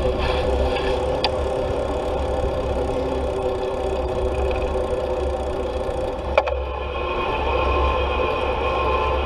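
Wind buffeting the microphone while riding a bicycle, under a steady whirring hum. There is a faint click about a second in and a sharp click about six seconds in.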